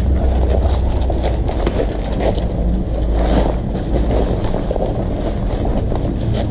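Loud steady low rumble of wind noise on the microphone, with scattered faint clicks.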